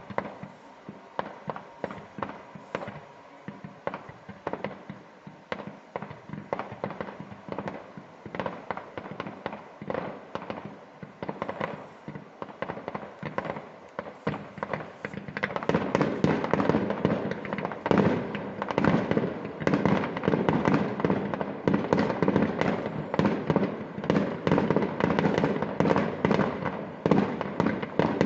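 Fireworks display: a continuous run of bangs and crackling pops that becomes denser and louder about halfway through.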